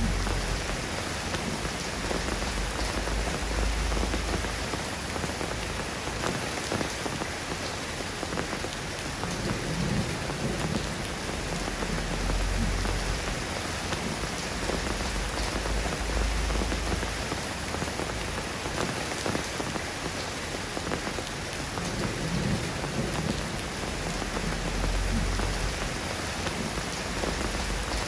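Steady rain falling on surfaces, a dense even hiss, with a low rumble that swells and fades now and then.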